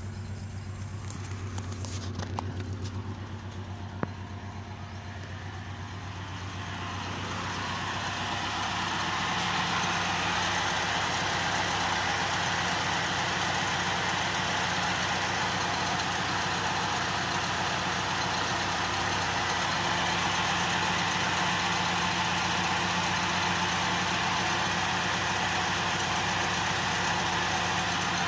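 Honda car engine idling after a cleaning to cure a rough, erratic idle; the idle is settling down. A steady hiss rises in about seven seconds in and holds.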